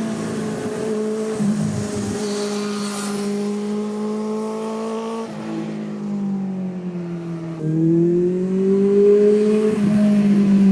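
Benelli TNT600i inline-four motorcycle engine running through an IXIL aftermarket exhaust at fairly steady revs; the pitch drops a little about five seconds in, then rises and the sound grows louder about eight seconds in.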